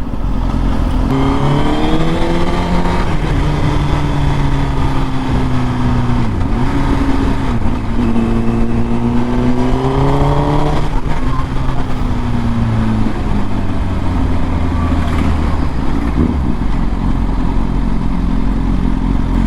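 Honda Fireblade's inline-four engine pulling away under acceleration, its pitch rising through the revs. There is a short drop near six seconds, like a gear change, then another long rise. Near the middle it falls back and settles to a steady cruise.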